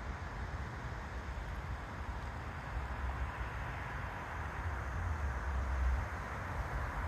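Steady outdoor background noise with a low rumble that swells about five seconds in.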